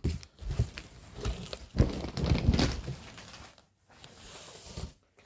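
Packaging being handled while a box is unpacked: irregular rustling and knocks, fading to a faint hiss near the end.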